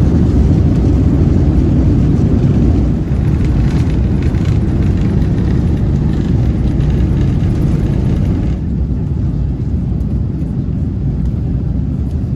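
Steady, loud rumble of an Airbus A350-900's engines and airflow heard from inside the cabin, mostly low-pitched. About two-thirds of the way in, the higher hiss drops away abruptly and the rumble gets slightly quieter.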